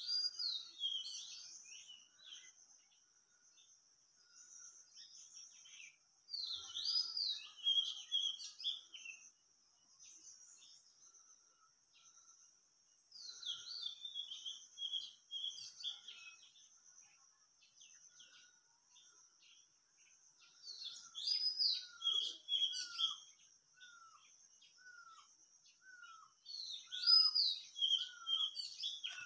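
Wild birds singing. One bird repeats a short phrase of falling notes every six or seven seconds, over a steady high-pitched insect drone. From about two-thirds of the way through, a second bird adds a short falling call about once a second.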